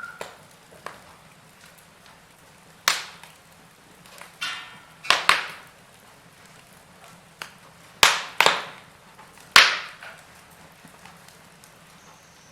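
Wood fire crackling, with loud sharp pops about three seconds in, a pair at about five seconds, another pair at about eight seconds and one at nine and a half. Just before the pair at five seconds there is a short whistle.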